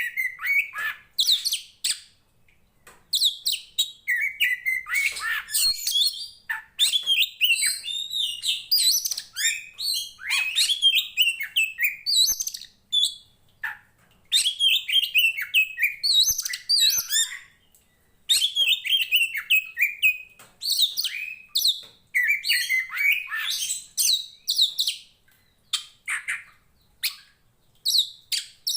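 Oriental magpie-robin (kacer poci) singing loudly and persistently: rapid, varied phrases of whistles and chirps that slide up and down in pitch, delivered in runs of several seconds with short pauses between them.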